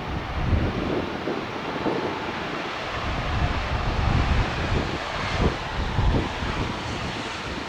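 Jet engines of an Embraer E-175 regional jet running as it arrives, a steady rush with a faint whine, while wind buffets the microphone in uneven low gusts.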